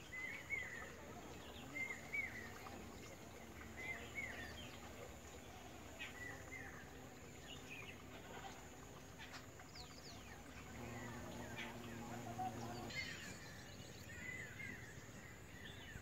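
Faint outdoor ambience with a small bird giving short chirps every couple of seconds. A steady low hum joins for about two seconds near the end.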